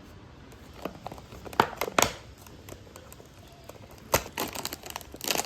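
Snack wrapper being crinkled and torn open: a few sharp crackles about a second and a half in, then a longer run of crackling from about four seconds in.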